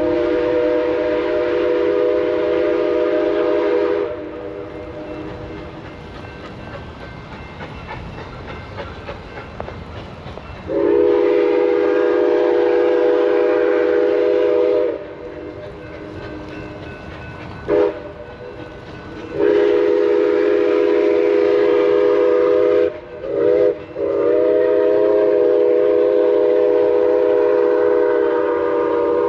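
Canadian Pacific 2816's chime whistle sounding the grade-crossing signal, a steady multi-note chord: two long blasts, a short one, then long blasts broken by a couple of quick stutters before a final long hold. Between blasts, the low rumble of the approaching train.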